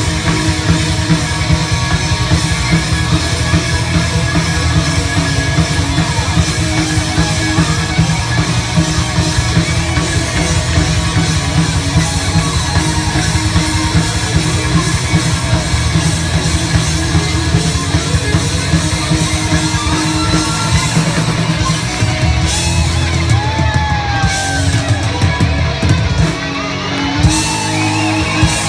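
Live rock band playing: guitar and drum kit with a steady beat. Gliding, bending guitar-like notes come in over the last several seconds, with a brief drop in loudness shortly before the end.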